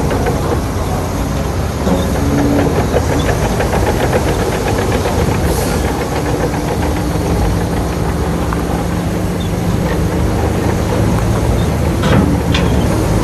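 Heavy diesel engine of a Shantui bulldozer running steadily, with two sharp clanks near the end.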